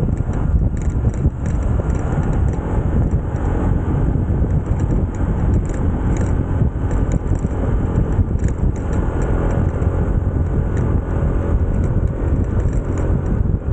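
Small-displacement motorcycle running steadily under way: continuous engine and ride noise with no breaks.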